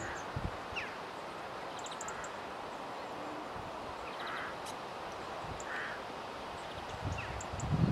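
Wild birds calling over a steady outdoor hiss: a few short calls in the middle and scattered thin high chirps and short falling whistles. Near the end a loud low rumble of wind on the microphone starts.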